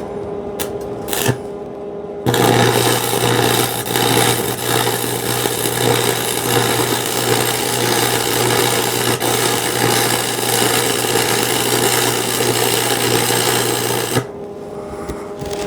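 Electric arc welder running a continuous bead on square steel tubing: a steady crackling sizzle over a low mains-frequency buzz for about twelve seconds, starting a couple of seconds in and cutting off sharply near the end. A few clicks come before the arc is struck.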